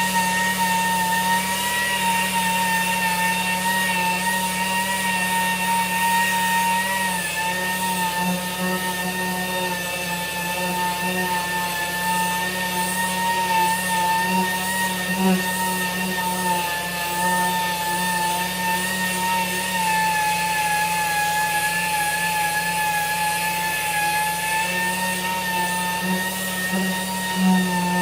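High-speed pneumatic tool running steadily with a high, even whine, its pitch wavering slightly and sagging a little about two-thirds of the way through, as when it is pressed into the work.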